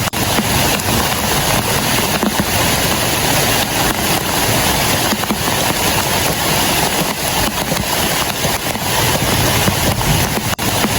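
Heavy rain pouring steadily onto a clear plastic tarp shelter.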